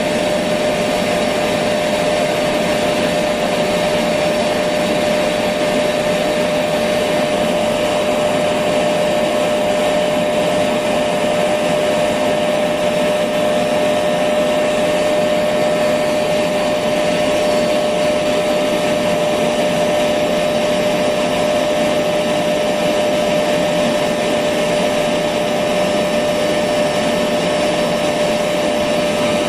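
Electric vacuum cleaner running continuously at a steady speed: an even whooshing rush with a constant mid-pitched hum that never changes.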